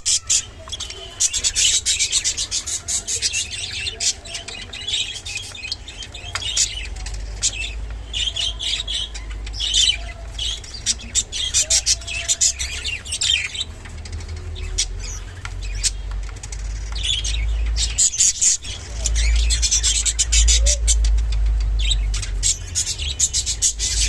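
Clearwing budgerigars chirping and chattering steadily, busy high-pitched warbles and tweets, with many sharp clicks mixed in.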